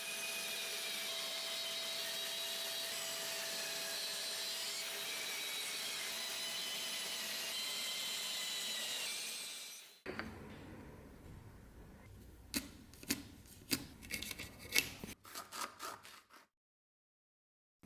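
A power tool runs steadily for about ten seconds, a high whirring noise with faint steady tones, then stops. Scattered clicks and knocks of tools and workpiece being handled follow, and the sound cuts out near the end.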